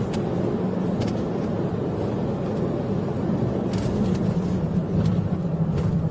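Police car driving at speed in a pursuit: a steady drone of engine and road noise, with a few faint ticks.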